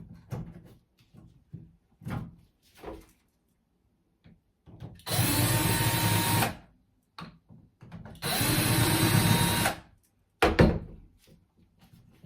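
Power drill running in two bursts of about a second and a half each, with a steady whine, as a part of the tub drain fitting is unscrewed. A sharp knock follows near the end, with small clicks and handling knocks earlier.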